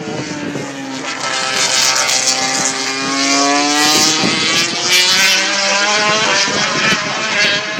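MotoGP racing motorcycle engines at high revs going past on track, their pitch sweeping down and up. The sound grows louder about a second in and is loudest a little past the middle.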